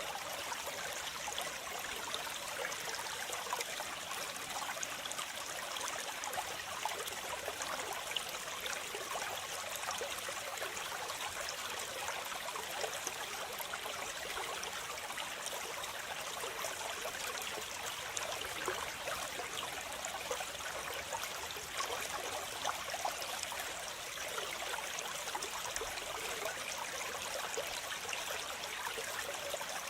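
Waterfall water splashing and rushing in a constant, even hiss, with little low rumble.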